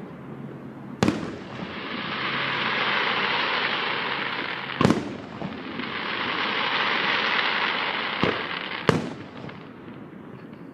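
Aerial fireworks bursting: sharp bangs about a second in, near five seconds, and two close together near nine seconds. Between the bangs a long hiss swells and fades twice.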